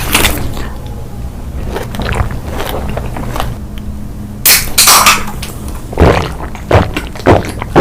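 Eating noises: a run of sharp crunches and clicks from about halfway in, over a low steady hum.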